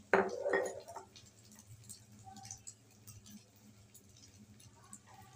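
Egg-coated shami kabab shallow-frying in hot oil, with faint scattered crackles and pops as the egg coating fries. A short, louder noise sounds right at the start.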